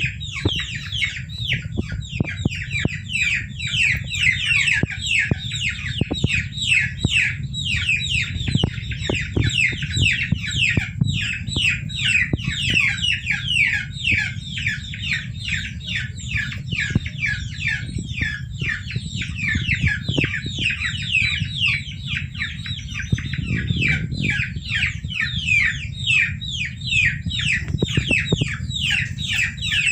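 A brood of young chicks peeping without a break: many short, high, downward-falling peeps overlapping, several a second, over a steady low hum.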